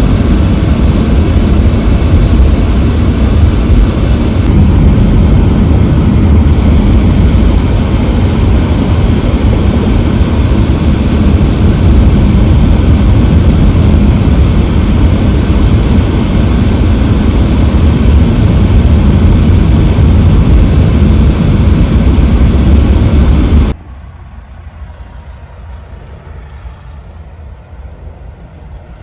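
Wind buffeting the microphone: a loud, steady rumbling noise that cuts off suddenly about 24 seconds in, leaving a much quieter hiss.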